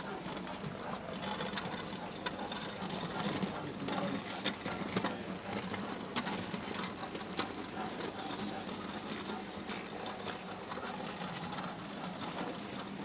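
Model train running along the layout track: a small electric motor whirring with rapid, irregular clicking of wheels and mechanism, over the general hum of a busy hall.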